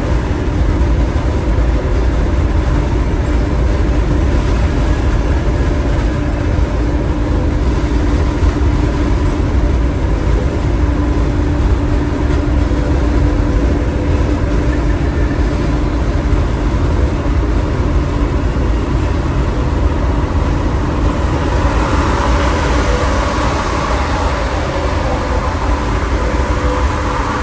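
Semi-truck cab noise while driving: a steady low engine-and-road rumble with a faint constant hum. A louder rushing hiss joins about three-quarters of the way through.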